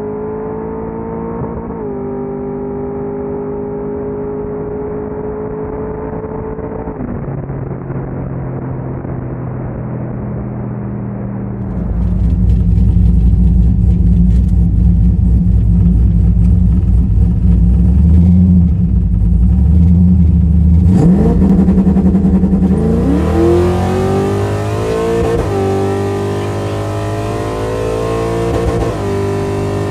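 2002 Chevrolet Camaro's LS1 V8 running steadily, then held loud at a fixed high rev on the two-step rev limiter for about nine seconds. It launches about two-thirds of the way in, the pitch climbing steadily as it pulls, with a shift near the end.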